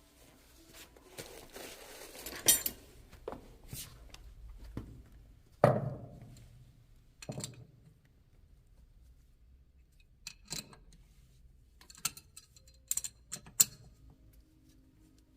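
Metal tools and small motorcycle fork parts clinking and knocking as they are handled and set down, with rustling in the first few seconds. The strokes come irregularly; the loudest knock, about six seconds in, rings briefly.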